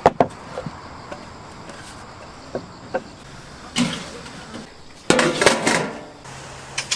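Kitchen clatter at a snack-shop counter: scattered knocks and clicks of utensils and dishes, with a louder scraping, rattling burst about five seconds in.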